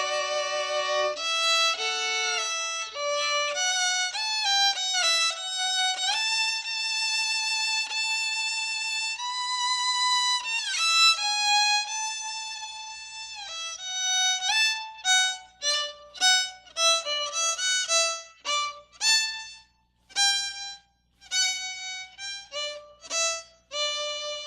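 Instrumental interlude between hymn verses: a single melody instrument plays a hymn tune, with vibrato on its long held notes. In the second half the notes become short and separate, with brief gaps between them.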